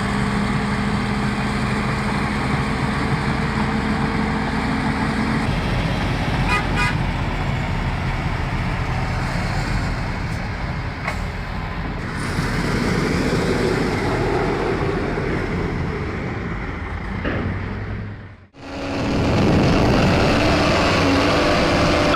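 Heavy construction machinery engines running steadily under load, with a brief run of quick clicks or beeps in the middle. The sound drops out suddenly near the end, then the machinery starts up again.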